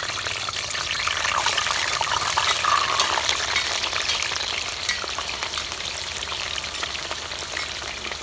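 Thinly sliced potatoes frying in very hot oil in a pan: a dense, crackling sizzle that swells about two to three seconds in, just after the raw slices go into the oil, then eases slowly.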